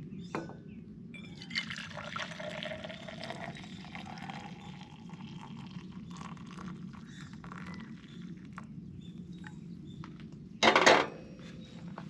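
Liquid being poured into a container for a few seconds, the pitch rising slowly as it fills. Near the end there is one loud, brief burst of noise about half a second long.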